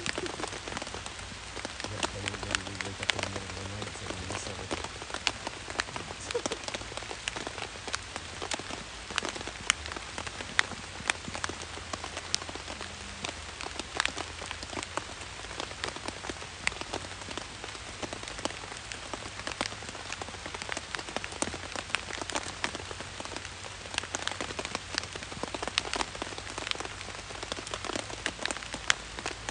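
Rain pattering on a tent's fabric, heard from inside the tent: a steady hiss of drops with many irregular sharper taps.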